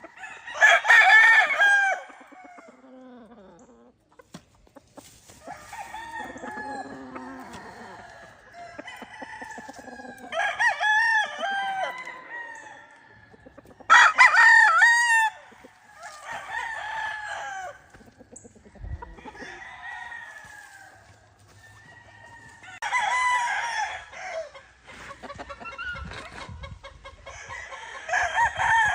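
Gamefowl roosters crowing one after another, about five loud crows, each lasting a second or two, with fainter crows and clucks from other birds in between.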